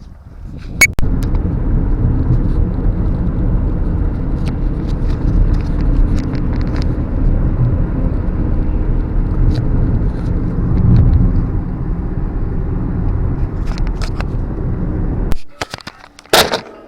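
Steady road and engine rumble of a car on the move, heard from inside the cabin. It is deep and even, begins a second in and cuts off about a second and a half before the end.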